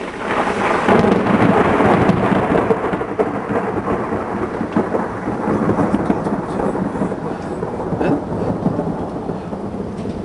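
Thunder from a nearby lightning strike: a sudden loud crash that rumbles and crackles on for several seconds, slowly fading, over steady rain.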